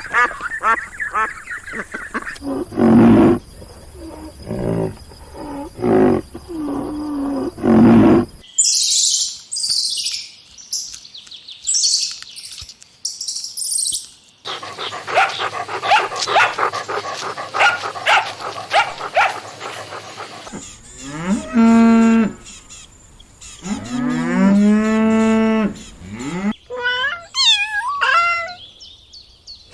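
A string of different animal calls cut one after another, the clearest being cattle mooing: two long, deep moos about two-thirds of the way through.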